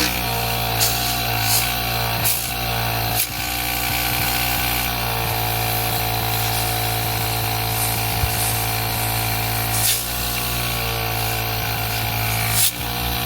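Electric air compressor motor running steadily at a constant pitch, with a few sharp clicks over it, mostly in the first few seconds.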